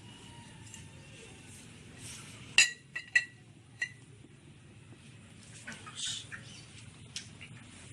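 Four sharp clinks with a short ringing tone, close together about two and a half to four seconds in, over a faint background, followed by a few softer rustling knocks.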